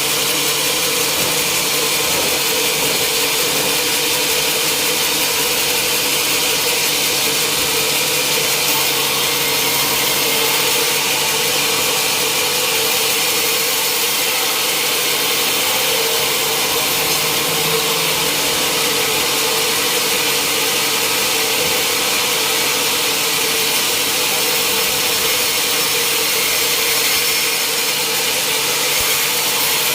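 Sawmill machinery running steadily: a continuous loud hiss with a steady underlying hum, unchanging throughout.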